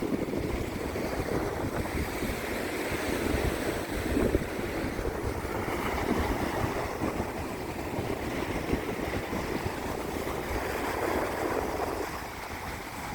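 Ocean surf washing onto a sandy beach in a continuous, swelling wash, with wind buffeting the microphone as a fluttering low rumble.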